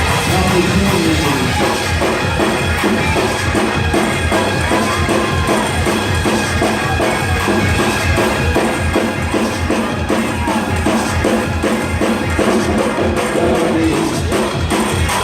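Loud live church band music for a praise break, with a fast, steady drum-kit beat and bass.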